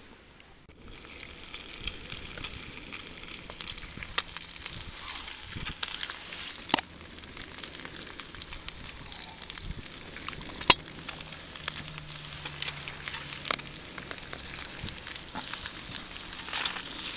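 Food sizzling as it cooks on a hot surface, starting about a second in, with scattered sharp pops and spits.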